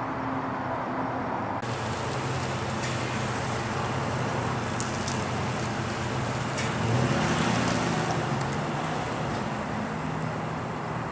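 Motor vehicle engine and road noise, with an engine rising in pitch and growing louder about seven seconds in.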